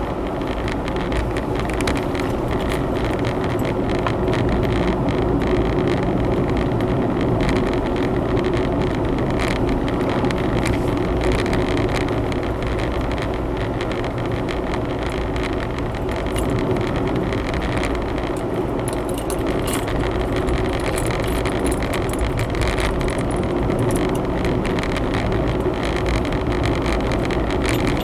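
Honda Zest 4WD kei car being driven, heard from inside the cabin: a steady mix of engine and tyre road noise, with scattered light clicks and rattles.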